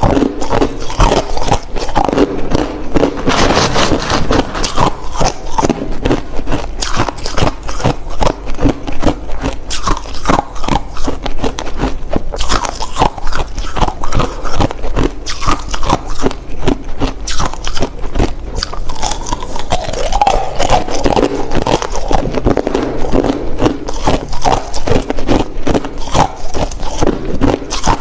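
Close-up crunching and chewing of clear, hard crushed ice: a rapid, continuous run of sharp cracks and crackles as the ice is bitten and ground between the teeth.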